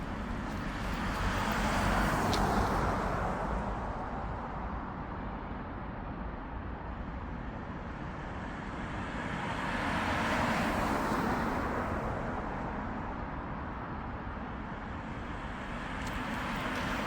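Road traffic: cars passing by, the noise swelling and fading twice, about two seconds in and again around ten seconds in.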